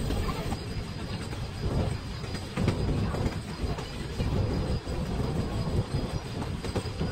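Puffing Billy narrow-gauge heritage train running along the track: a steady rumble of carriage wheels on the rails with irregular clacks and knocks.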